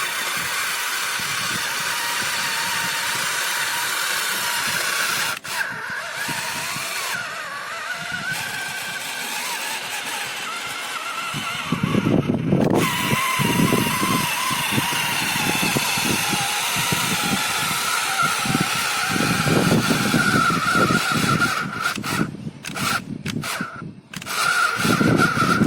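The small motor and new-geared gearbox of a model John Deere tractor running with a steady whine. About halfway through a rougher, lower rumble joins and the sound gets louder, as if the drive has come under load.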